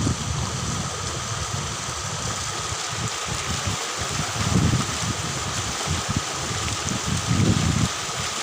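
Steady rush of flowing river water, with wind buffeting the microphone in low rumbling gusts.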